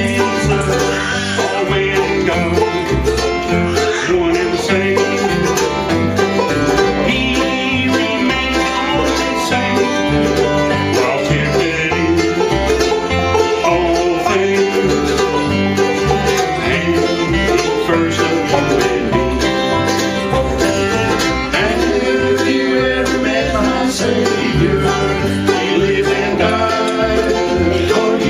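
Bluegrass band playing a song live, with banjo and guitar picking over a steady pulse of bass notes.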